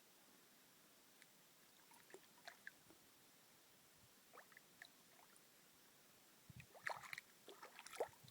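Faint water dripping and trickling: scattered small plinks and clicks over a quiet hiss, busier and louder over the last two seconds.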